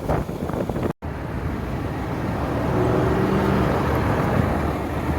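Road traffic: a vehicle going by, its noise swelling and then easing off, with a faint engine hum at its loudest. The sound cuts out briefly about a second in.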